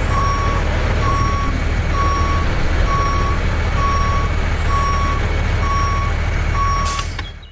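Truck reversing alarm beeping steadily, about one beep a second, over a low engine rumble. A brief hiss comes near the end, and then the sound fades out.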